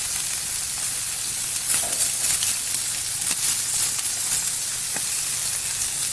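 Chicken pieces sizzling on a hot gas barbecue grill as barbecue sauce is brushed onto them. It is a steady hiss with a few brief louder flares of sizzle.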